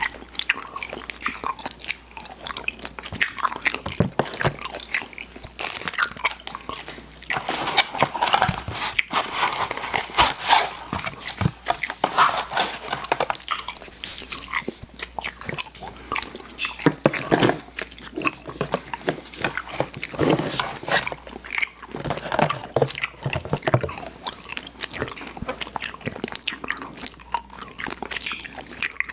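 Close-miked eating of sweets: bites and steady chewing, with many small wet mouth clicks and smacks.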